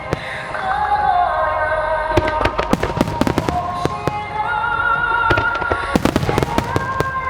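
Aerial fireworks shells bursting and crackling in quick succession throughout, over accompanying music with long held, wavering notes.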